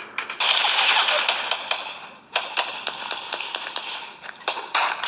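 Battle sound effect: rapid sharp cracks of gunfire over a rushing noise. The noise drops away briefly a little past two seconds in, then the cracks carry on.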